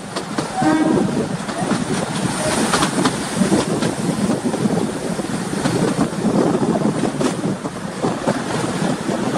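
Narrow-gauge passenger train running, heard from the open doorway of a coach: a steady rumble of wheels on rail with the irregular clatter and knocking of the coaches.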